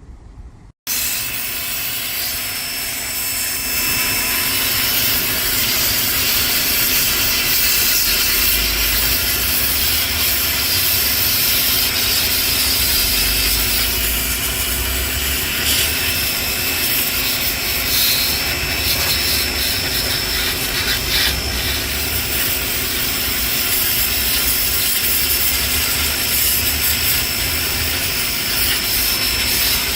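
Pressure washer running, its water jet spraying in a loud, steady hiss over a low hum. It starts abruptly just under a second in.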